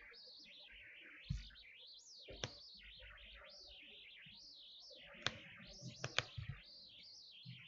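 Faint songbird warbling in the background, a continuous run of high, rising and falling chirps. A soft thump about a second in and a few sharp clicks, the loudest of them around five and six seconds in.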